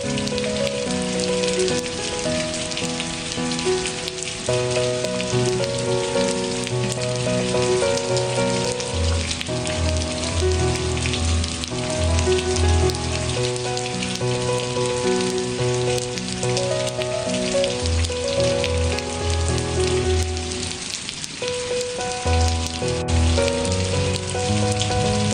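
Steady rain falling, a dense even patter, with soft, slow music of held notes and a bass line beneath it.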